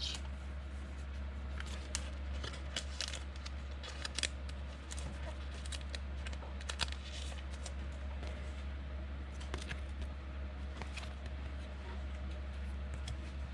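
Trading cards being handled and flipped through, with scattered light clicks and rustles over a steady low hum.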